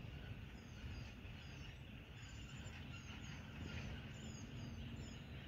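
Small birds calling: many short, high chirps that slide downward, often in quick pairs, over a steady low rumble.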